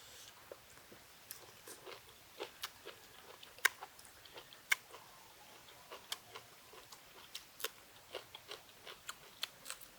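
Close-miked chewing of a mouthful of beef tripe wrapped around liver: irregular wet mouth clicks and smacks, several a second, two sharper ones near the middle.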